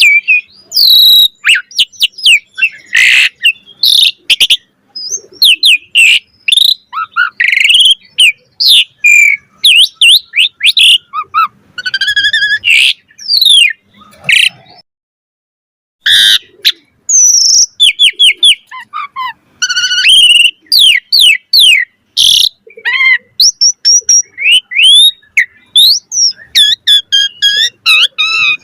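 Asian pied starling (jalak suren) singing a fast, varied stream of whistles, chirps and sliding notes, with a pause of about a second midway.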